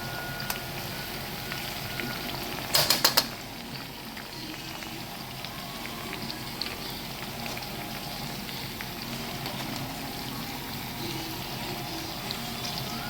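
Battered chicken deep-frying in hot oil in a wok: a steady bubbling sizzle with scattered small pops. A short cluster of sharp knocks comes about three seconds in.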